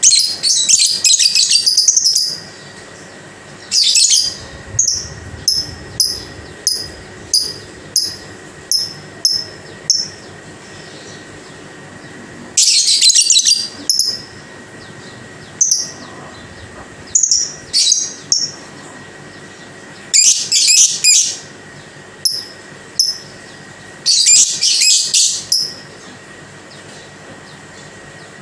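Female lovebird calling: bursts of rapid, high-pitched chattering a second or two long, several times over, with runs of short, sharp chirps repeating about twice a second in between.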